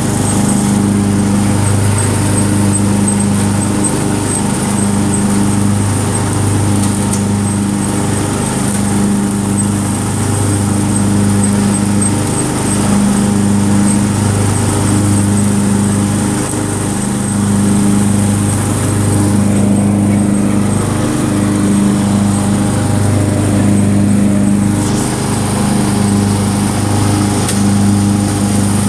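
Tractor engine running steadily under way, its note swelling and fading in a slow, regular throb about every second and a half.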